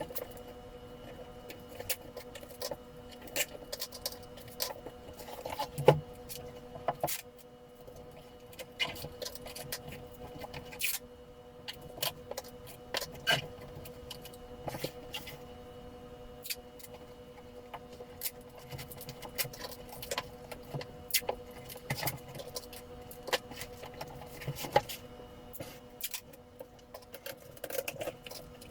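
Packing tape being pulled off the roll and pressed onto a cardboard box, with scattered crackles, taps and rustles of handling, over a faint steady hum.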